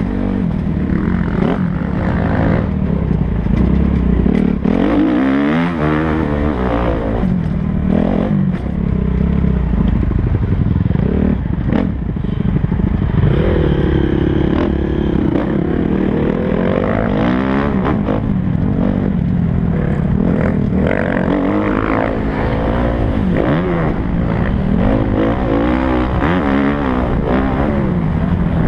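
Kawasaki KX250F motocross bike's single-cylinder four-stroke engine being ridden hard, its pitch rising and falling over and over as the throttle is opened and shut.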